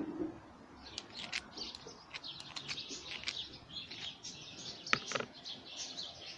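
Small songbirds chirping in quick, high twitters. A few sharp clicks cut through now and then, the loudest about five seconds in.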